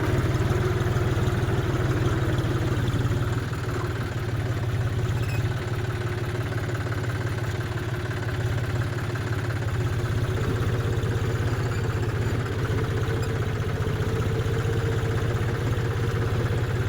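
Tractor engine idling steadily, a low even running sound with no change in speed.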